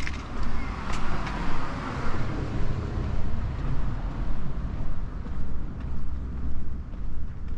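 A car passing on the street, its tyre and engine noise swelling in the first couple of seconds and then fading away, over steady walking footsteps about twice a second.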